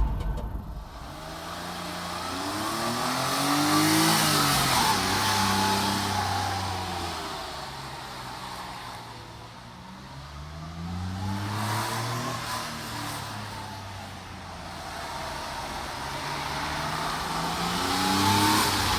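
Daihatsu Hijet kei dump truck driving past three times. With each pass the engine and tyre noise swells and fades, and the engine note rises and then falls.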